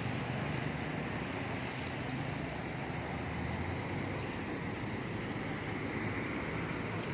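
Steady rushing roar of floodwater, unbroken throughout.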